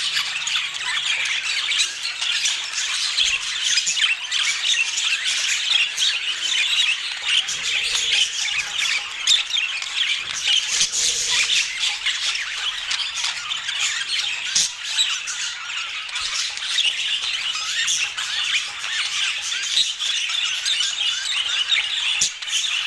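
Budgerigars chattering and warbling together: a continuous, dense stream of short overlapping chirps and squawks.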